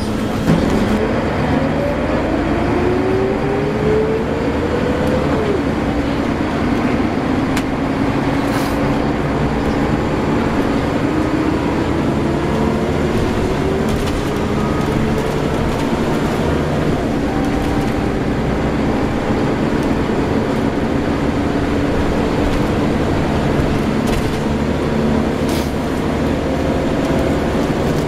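Scania L94UB single-deck bus under way, its diesel engine and drivetrain running steadily. The pitch rises gradually as it accelerates, most clearly near the start and again later on.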